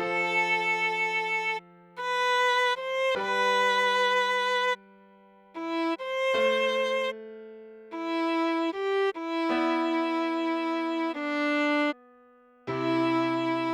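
Viola playing a slow melody in separate long held notes with short breaks between them, over a lower sustained note. This is the tune at half speed for learning.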